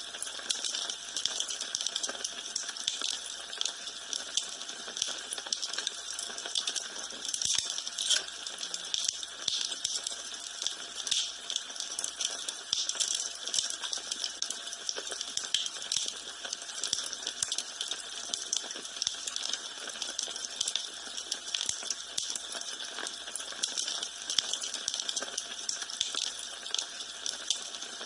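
Wood fire burning in a fireplace, with a steady hiss and a constant scatter of small crackles and pops.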